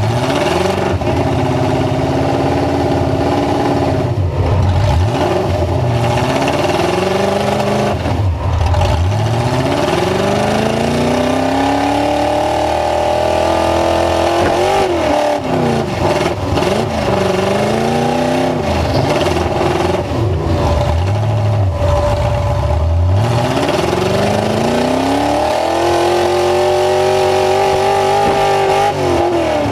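Full-size truck engines revving hard, their pitch climbing and dropping again and again, several engines at once.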